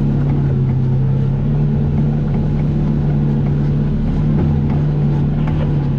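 Vehicle engine running at a steady speed, a constant loud drone with no revving.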